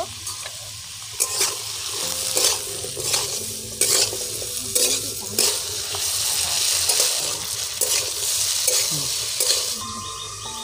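Diced potatoes frying in an aluminium kadai: a steady sizzle, with the spatula scraping and knocking against the pan about once a second as it stirs.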